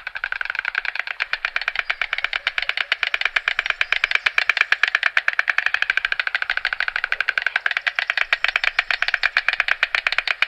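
White stork clattering its bill: a long, rapid, even rattle of wooden-sounding clicks.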